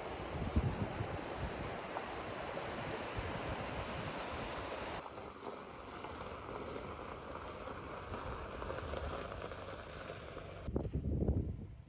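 Strong wind gusting across the microphone as a low buffeting rumble over a steady rush of noise. The sound changes abruptly about five seconds in and again near the end, where a heavier gust rumbles.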